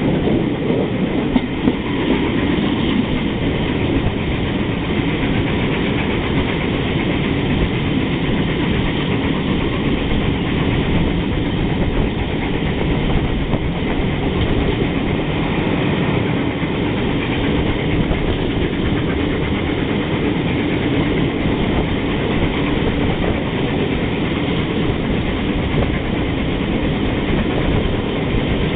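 Passenger train hauled by the Peppercorn A1 Pacific steam locomotive 60163 Tornado running at speed, heard from an open carriage window: a steady, even rumble of wheels on rail.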